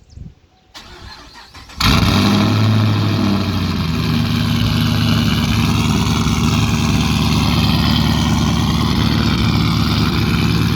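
A 2011 Camaro SS's 6.2-litre LS3 V8, straight-piped through long-tube headers with no mufflers, is cold-started. The starter cranks for about a second, then the engine catches loudly with a brief flare. By about four seconds in it has settled into a steady, loud idle.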